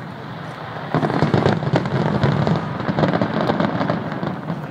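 Aerial fireworks shells bursting in a rapid volley of booms and crackling. It starts suddenly about a second in and dies away near the end.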